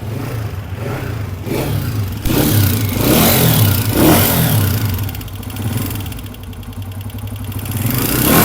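Honda CG 125's single-cylinder pushrod four-stroke engine running and blipped a few times, with a loud ticking tappet clatter from inside the engine: the sign of a loose intake tappet and a damaged pushrod.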